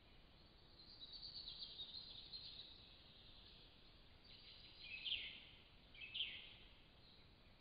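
Faint forest songbirds singing, with two louder short descending bird phrases about five and six seconds in, over a low steady hiss from a trail camera's microphone.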